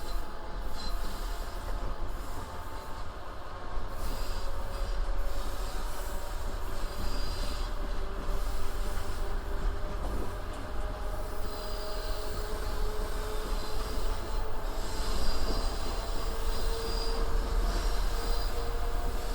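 Passenger train running on the rails: a steady low rumble with a wheel squeal of several tones that drift slowly in pitch.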